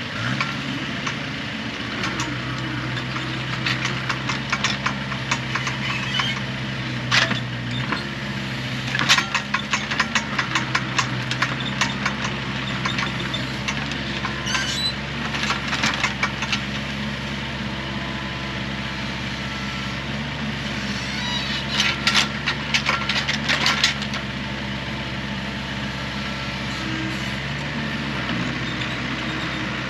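A vehicle engine starts and settles into a steady idle, with several short bursts of rattling clicks over it.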